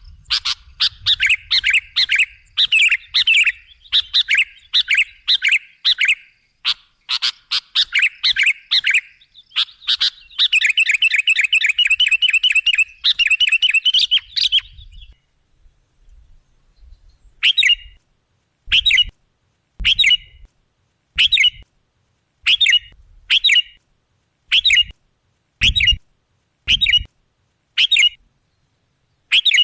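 Sooty-headed bulbul (kutilang) calling: a dense run of rapid, repeated chirps for about the first fifteen seconds, then short single calls about once a second.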